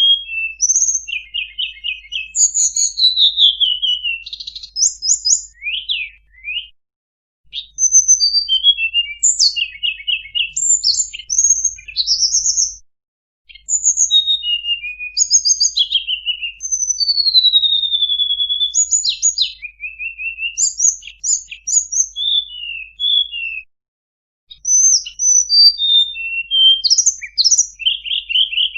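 Tledekan gunung songbird singing a long, varied song full of fill-in phrases. It runs through quick trills, rising and falling whistles and sharp chips in rapid succession, broken by a few brief pauses.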